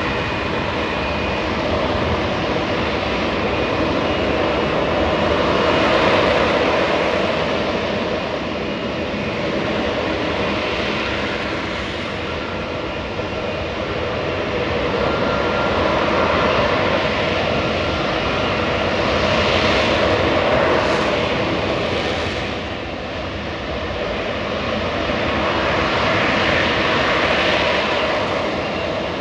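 An F-35B Lightning II's Pratt & Whitney F135 jet engine roaring continuously and loudly, swelling and easing in strength every few seconds.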